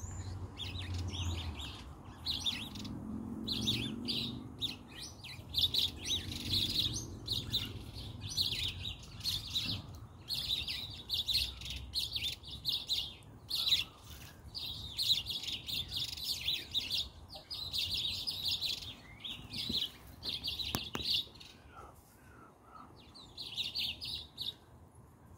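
Small birds chirping and twittering in quick, overlapping high phrases, almost without pause, then breaking off briefly before one more burst near the end.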